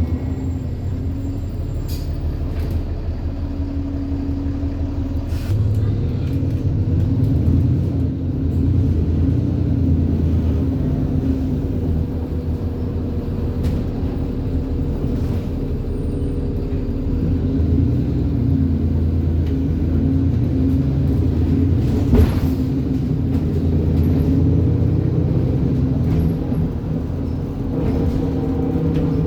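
ADL Enviro 400 double-decker bus's diesel engine and drivetrain running on the move, with a steady, tram-like whining drone. The pitch falls in the first second, holds, and climbs again near the end as the bus speeds up. There is a sharp click a little over two-thirds of the way through.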